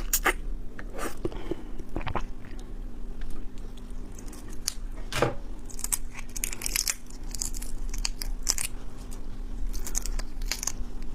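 Close-up eating sounds of raw shrimp and prawns: wet chewing and biting with sharp clicks and crackles of shell tearing, thickest in the second half, over a faint steady low hum.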